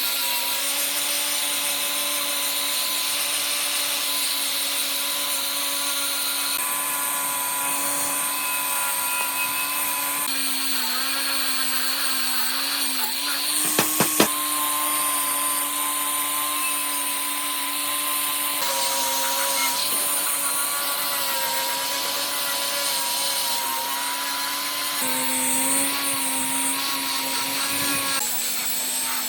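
Electric power tool running at a steady speed, a constant motor hum with a hiss over it. Its pitch shifts slightly at several cuts, and there are a few sharp clicks about 14 seconds in.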